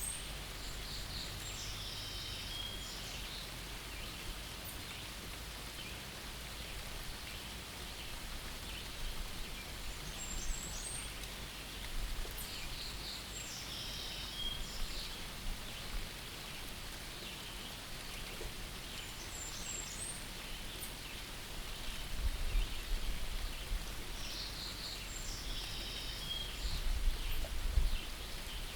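Steady light rain falling, with a bird giving a short high chirping phrase about every ten seconds. A couple of low rumbles come late on.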